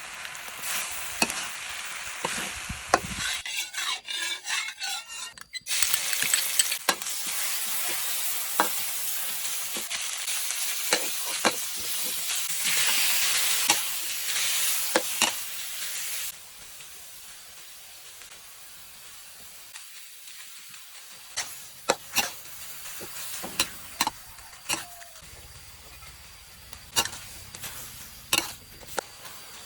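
Food being stir-fried in a hot pan: a steady sizzle with utensil scrapes and clacks. About sixteen seconds in the sizzle drops much lower, leaving mostly separate sharp clacks of the utensil against the pan.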